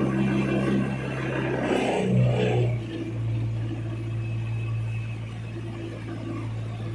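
Boat engine running steadily, its hum dropping slightly in pitch and easing off a little about two to three seconds in.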